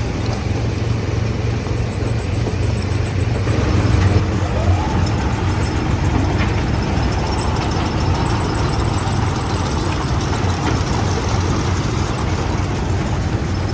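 Heavy machinery running steadily with a deep low hum, and a whine that rises about four and a half seconds in and then holds at the higher pitch.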